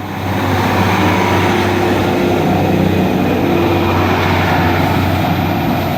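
Diesel multiple unit train running through the station close by, a loud, steady engine and rail noise that swells just after the start and then holds.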